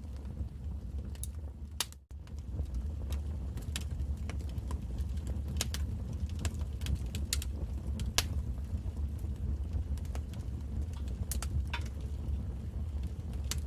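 Wood fire crackling in a fireplace: irregular sharp pops and snaps over a steady low rumble of the flames. The sound briefly cuts out about two seconds in.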